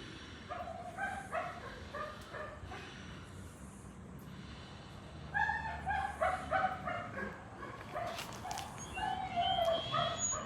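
A dog whimpering and giving short yips, in three spells of quick pitched calls.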